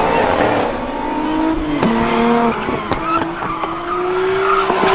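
Nissan 240SX drifting: its engine revving hard with tyres squealing and skidding, the pitch gliding up and down several times.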